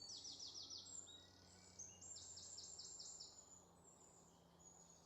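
Faint birdsong: quick runs of high, falling whistled notes, one run near the start and a longer one about two seconds in, with scattered single calls between.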